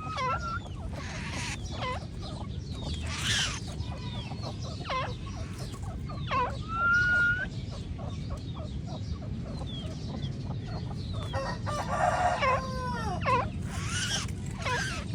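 Black francolin calling: a series of harsh, grating calls with sharp down-sweeping notes, the longest raspy phrases coming about a second in and again near twelve seconds.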